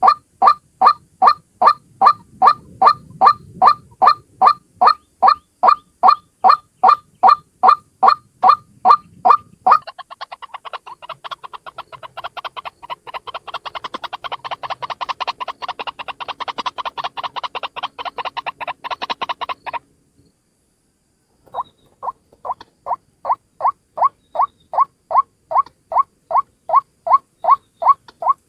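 White-breasted waterhen calling: a loud, pitched croak repeated about three times a second. About ten seconds in it switches to a faster, denser chatter that lasts about ten seconds. After a short pause the steady repeated calls start again.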